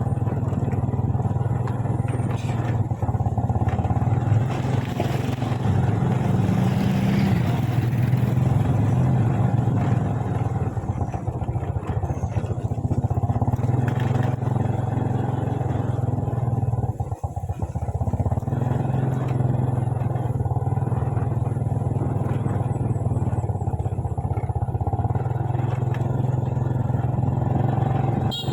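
Small motorcycle engine running steadily while riding, with wind and road noise, easing off briefly about two-thirds of the way through before carrying on.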